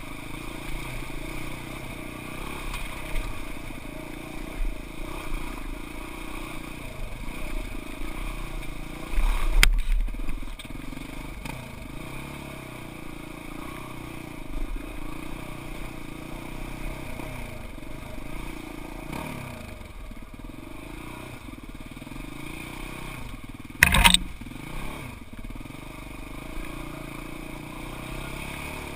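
Arctic Cat Wildcat side-by-side UTV's engine running steadily as it crawls over rough, rocky ground, with clattering and scraping from the machine. There is a heavier bump about a third of the way in and one sharp, loud knock about four-fifths of the way through.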